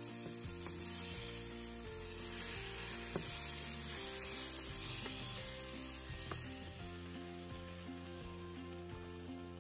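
Food sizzling in a stainless steel skillet as tomato sauce and then raw chicken pieces are stir-fried with a wooden spoon. The sizzle is strongest in the first half and eases later on, with a few light knocks from the spoon.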